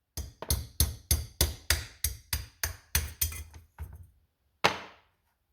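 Rapid hammer taps on the rusted carburetor: about a dozen sharp metallic blows at roughly three a second, fading over the last few, then one final harder blow near the end.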